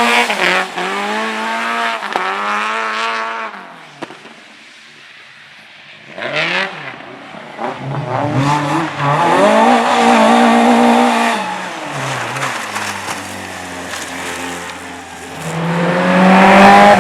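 Race cars driven hard on a show-run course: engines revving up and falling back with gear changes and lifts, with some tyre squeal. There is a quieter lull about four seconds in, then a car comes closer and is loudest near the end.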